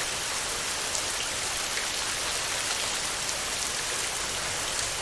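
Steady heavy rain on a tin roof: a dense, even hiss with scattered sharper drop ticks.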